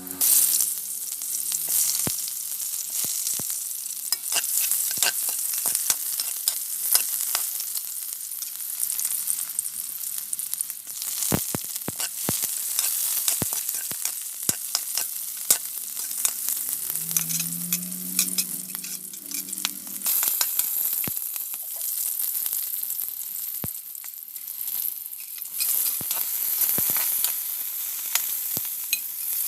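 Food sizzling and frying in hot oil in a pan while being stirred, with frequent sharp clicks and scrapes of a spatula against the pan. This is the sauté stage of cooking chicken adobo.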